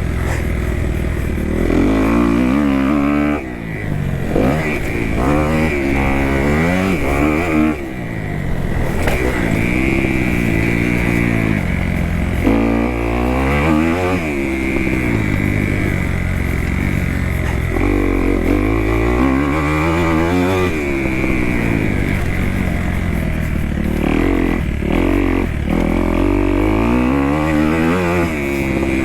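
2018 Kawasaki KX250F's single-cylinder four-stroke engine on a motocross track, its pitch climbing and falling over and over as the throttle is opened and closed through the jumps and turns, with brief throttle chops about three and a half and eight seconds in.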